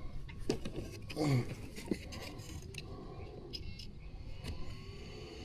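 A few light clicks and rattles of small objects being handled, and a faint rising whine that starts about four and a half seconds in.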